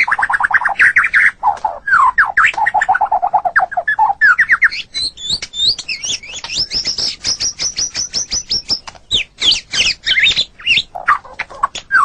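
White-rumped shama singing a fast, varied song: rapid trills of repeated whistled notes, lower-pitched at first, then a long run of quick high notes in the middle, dropping to lower phrases again near the end.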